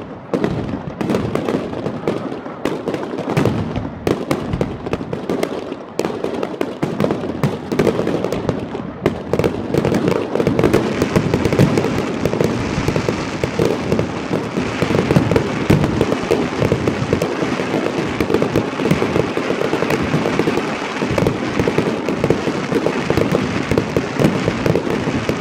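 Fireworks display: a quick string of separate bangs from bursting aerial shells, which from about ten seconds in thickens into a dense, near-continuous barrage of bangs and crackling.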